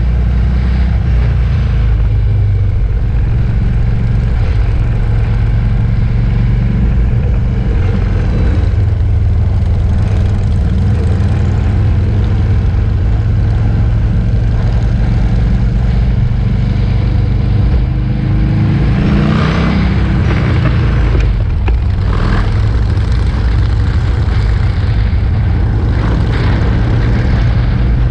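A pack of motorcycles riding past, their engines blending into a loud, steady low rumble, with one engine revving up about two-thirds of the way through.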